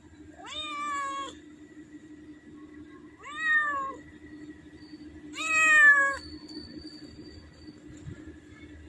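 A cat meowing three times, each meow about a second long and falling slightly in pitch, the last one the loudest.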